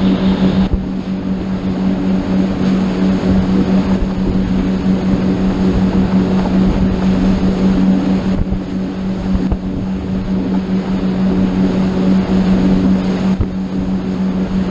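Motorboat engine running at a steady pitch, a constant loud drone, under a rush of wind and water noise.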